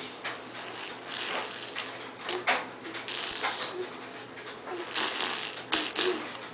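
A baby making short breathy huffs and small grunts, with patting and rustling as it moves about on its own.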